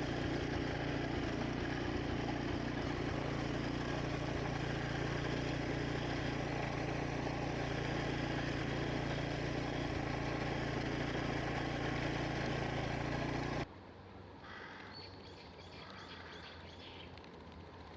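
Engine powering a wing mower during grass cutting, running steadily, then cutting off suddenly about fourteen seconds in. Birds chirp in the quieter background that follows.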